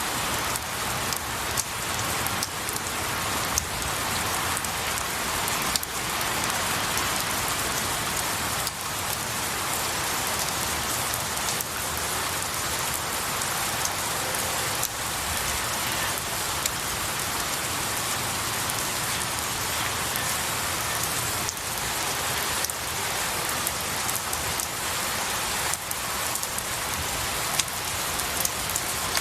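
Steady rain falling on pine needles and tree branches, a dense even hiss scattered with sharper individual drop ticks.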